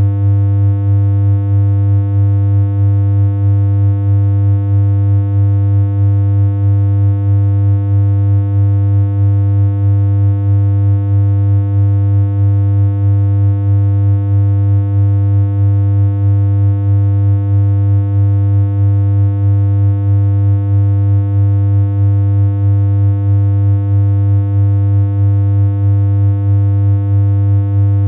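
Synthesized electronic hum: one low, unchanging pitch held steadily, with a slight regular waver in loudness.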